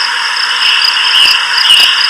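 A steady chorus of calling insects: a dense, high-pitched trilling that swells and fades slightly.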